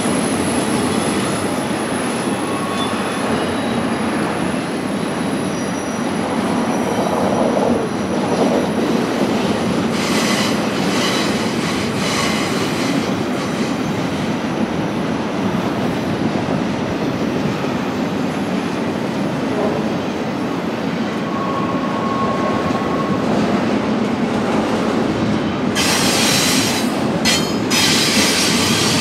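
BNSF intermodal freight train's cars rolling steadily past: continuous rumble and clatter of wheels on rail, with a few brief, faint wheel squeals and occasional louder hissing rushes.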